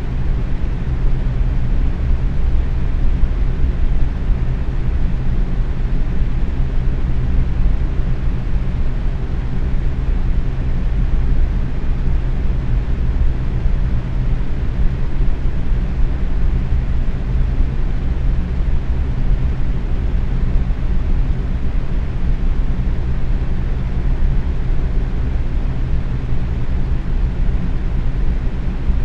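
Box fan running steadily at medium speed: a constant whoosh of moving air, strongest in the low range, with a faint steady hum from the motor.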